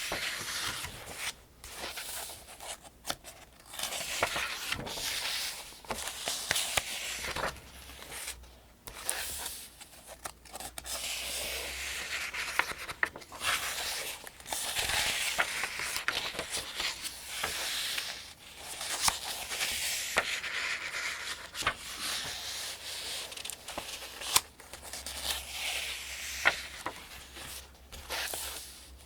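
Pages of a paperback almanac turning one after another, each turn a rustle and swish of thin paper with a small crisp snap as the page lands, every two or three seconds.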